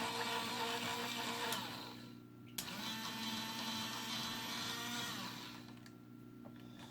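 The small battery motor and plastic gearbox of the DX Bakurenoh (Blizzard Megazord) toy's motorized tail whirring. It stops with a click about two seconds in, then starts again with another click and runs for about three seconds before dying away.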